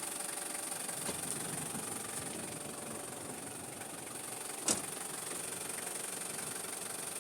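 Steady hiss of falling rain, with one sharp knock about four and a half seconds in.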